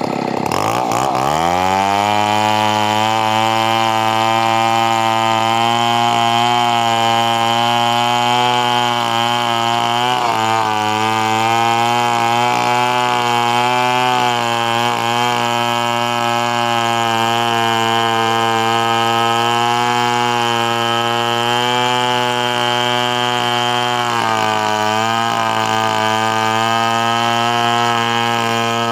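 Chainsaw engine running at steady high revs. The revs dip at the very start and climb back within about two seconds, then hold steady with brief wavers about ten seconds in and near the end.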